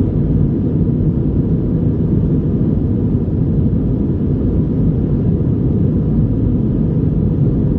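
Steady low rumble of engine and airflow noise heard from inside an Airbus A321's passenger cabin in flight.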